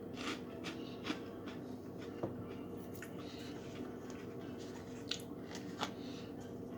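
Faint, scattered crunches and mouth clicks from chewing crunchy cheese puffs, over a steady low electrical hum.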